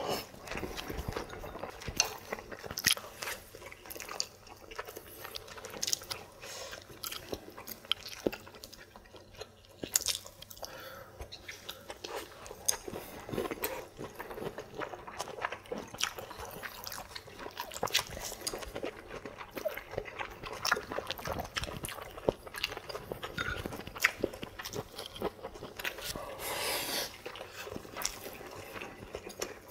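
Two people chewing and biting food close to the microphone, with many short sharp clicks throughout.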